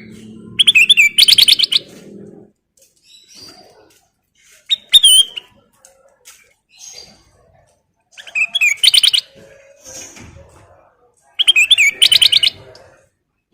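Kutilang emas (a bulbul) singing loudly in four bursts of rapid, high repeated chirps, with softer calls in between.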